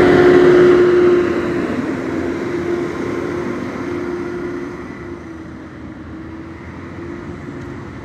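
A motor vehicle running close by with a steady engine tone, then fading steadily over a few seconds as it moves away.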